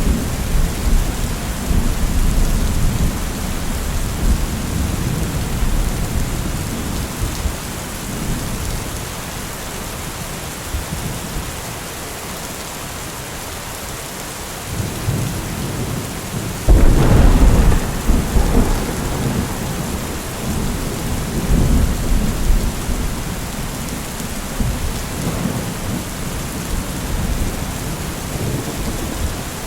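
Steady rain with rolling thunder in a thunderstorm. A louder thunderclap breaks a little past halfway and rumbles on for a few seconds.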